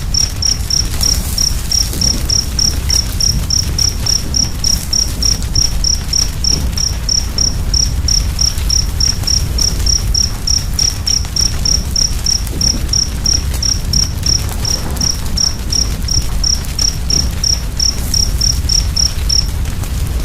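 Wood fire crackling with a low rumble and scattered small pops, while a cricket chirps steadily about three times a second, stopping near the end.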